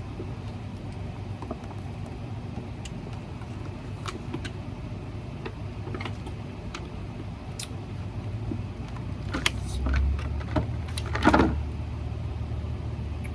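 A fork clicking and tapping against food and a takeout container while eating, with scattered light clicks over a steady low hum and a louder handling sound near the end.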